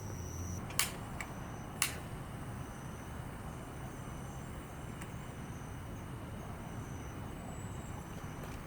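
Steady hum of distant road traffic in a garden, with two sharp clicks about a second apart near the start.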